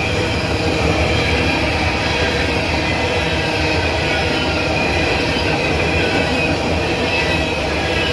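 Southbound coal train of empty hoppers rolling past: a steady rumble of steel wheels on rail with high, continuous squealing tones over it.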